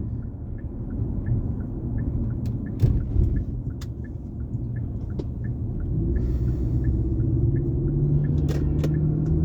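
Road rumble inside a moving car, with a faint, even ticking about two or three times a second. From about six seconds in, another car's horn sounds in one long, steady blast that grows louder.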